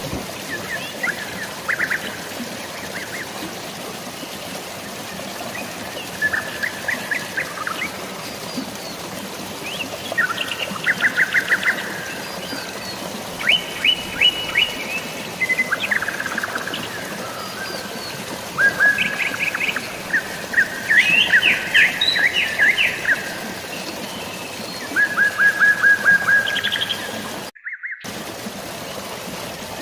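Birds singing quick trills of rapid, evenly spaced notes, one after another, over a steady hiss of rain and running water. The sound cuts out completely for about half a second near the end.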